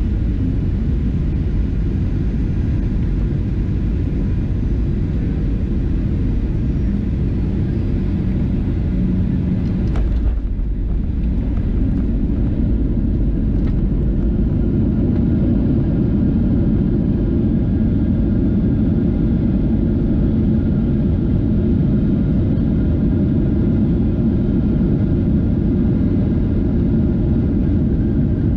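Steady, loud rumble of a Boeing 737-700 in motion: its CFM56-7B jet engines and the rush of air, with no changes in pitch.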